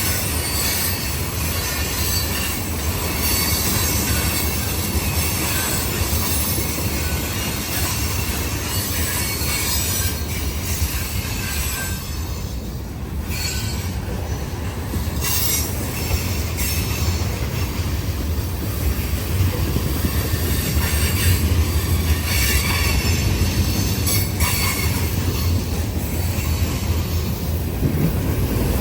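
Freight cars of a long CN freight train rolling past, a steady rumble of steel wheels on the rails.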